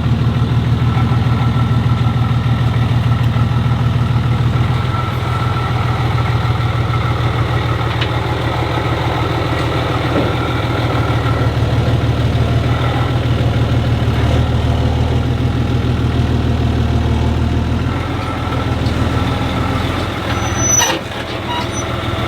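Truck engine idling steadily with a deep, even hum. Near the end there is a short knock and the engine sound dips briefly.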